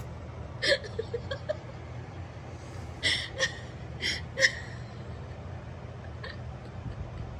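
A baby's short breathy gasps and little squeals, about five of them, over a low steady hum.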